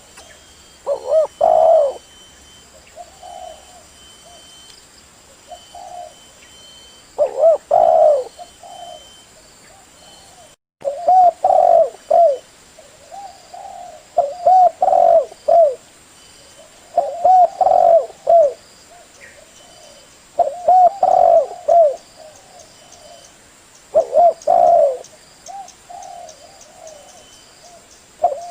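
Male spotted dove cooing: a phrase of several low coos repeated about every three seconds, with fainter coos between the phrases. The cooing is the call used to lure spotted doves.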